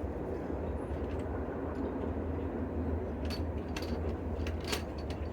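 A few light clicks and clinks from handling metal parts, over a steady low background hum. The impact wrench is not running.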